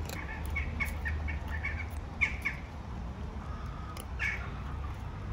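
Small birds chirping in short bursts, a quick run of chirps in the first two seconds and a couple more later, over cats crunching dry kibble and a steady low rumble.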